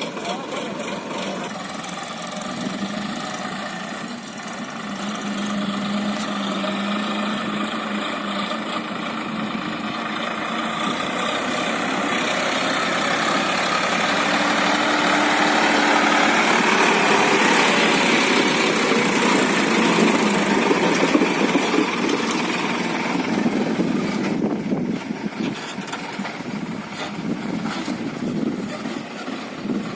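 Three-cylinder diesel engine of a Sonalika DI 47 RX tractor running as it pulls a loaded trolley, growing steadily louder to a peak about two-thirds of the way through, then fading somewhat.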